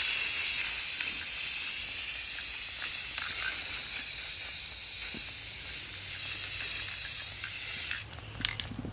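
Aerosol spray paint can spraying in a steady hiss, which cuts off suddenly about eight seconds in, followed by a few light clicks.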